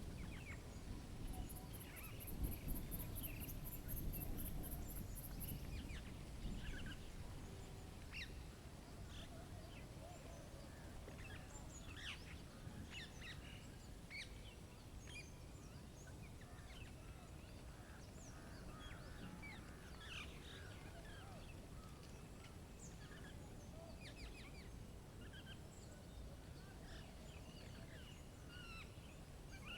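Outdoor ambience of wild birds chirping, with many short, scattered calls. A low rumble runs through the first several seconds, with a fast, high, faint ticking over the same stretch.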